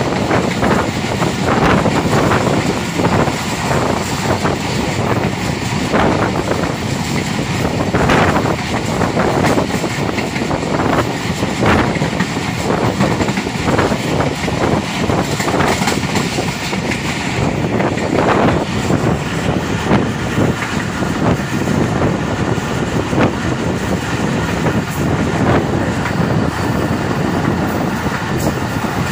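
Passenger train coaches running at speed, heard from an open window: a steady rumble with wheels clattering on the track in irregular knocks.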